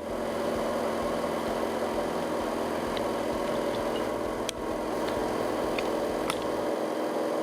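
Washing machine spinning fast, with a steady motor hum and a few faint clicks.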